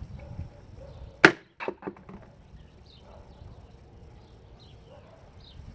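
Faint outdoor ambience with small birds chirping now and then. A single sharp knock comes about a second in, followed by a few lighter clicks.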